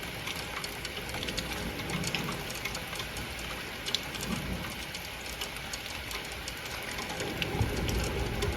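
Steady rain falling, an even hiss with scattered drips ticking throughout.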